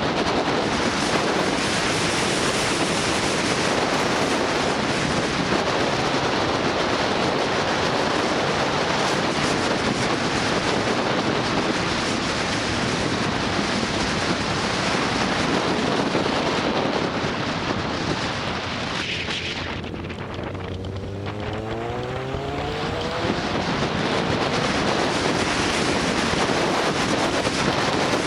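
Wind rushing over the microphone of a riding motorcycle, with its engine running underneath. About twenty seconds in the wind drops and the engine's note falls as the bike slows, then the wind noise builds up again.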